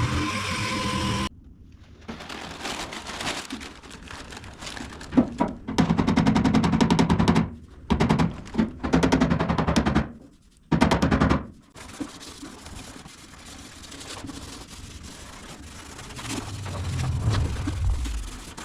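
Dual-action sander working over car body panels in several loud, chopped bursts. Near the end a low hum falls in pitch as the sander winds down.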